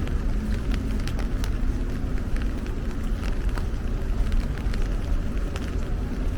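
Rain on a city street: scattered, irregular drip ticks over a steady low rumble of traffic.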